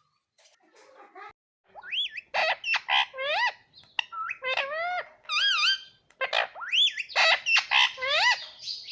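Pet parrot calling in quick runs of whistled squawks that swoop up and down in pitch. The calls start faint and become loud about two seconds in.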